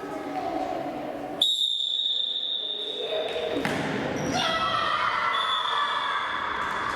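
A long blast of a referee's whistle in an indoor futsal hall, one steady high note starting suddenly and lasting about two seconds, followed by voices and echoing hall noise.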